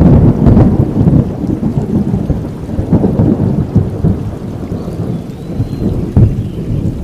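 Thunder rumbling over steady rain, loudest at the start and slowly dying away, with a short sharper burst about six seconds in.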